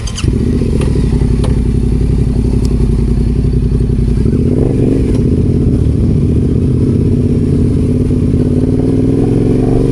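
Adventure motorcycle engine running close by, coming in suddenly just after the start and then holding a steady note, its pitch rising a little about four seconds in and again near the end.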